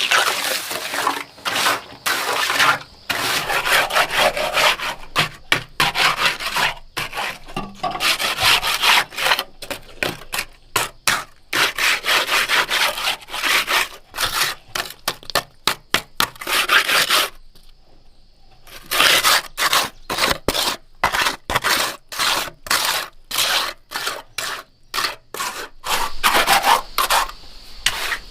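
Repeated rough scraping strokes of a hand tool against a hard surface, two or three a second and uneven, with a short pause about two-thirds of the way through.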